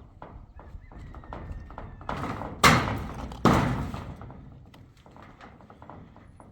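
A run of light knocks, with two heavy thuds a little under a second apart midway through, each dying away slowly.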